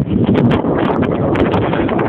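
Wind buffeting the microphone: a loud, steady rumbling roar.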